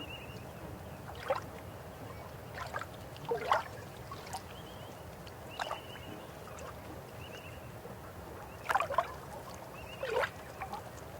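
A river running steadily, with irregular loud gurgles and splashes of water breaking every second or two, the strongest about three and a half, nine and ten seconds in. A few short, faint high notes sound over it.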